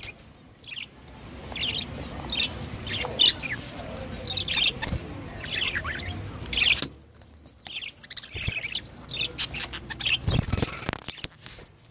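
Budgerigars chirping and twittering in short, high calls. The calls ease off briefly about two-thirds of the way through, and there is a dull thump near the end.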